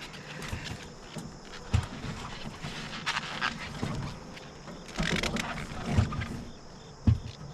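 Irregular knocks, clicks and short scraping handling noises as a refrigerant line's flare nut is worked on and tightened by hand in the tight space behind a mini-split indoor unit, with a couple of sharper thumps near the end.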